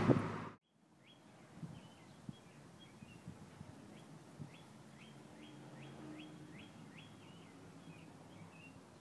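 Car road and wind noise that cuts off abruptly about half a second in. Then faint songbird chirping: a long series of short high notes, repeated over several seconds.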